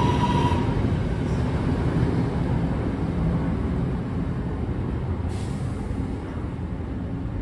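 Northern electric multiple unit train running away down the line, its rumble fading steadily as it goes. A steady high whine stops within the first second, and a short hiss comes about five seconds in.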